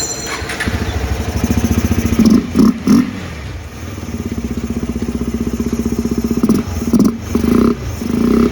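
KTM 250 Adventure's single-cylinder engine running at idle, blipped with short revs a few times. The bike has a fresh spark plug and a cleaned throttle body, fitted to cure its hard cold starting.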